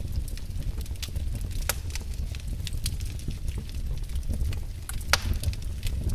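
Fireplace fire crackling, with scattered pops over a steady low rumble and one louder pop about five seconds in.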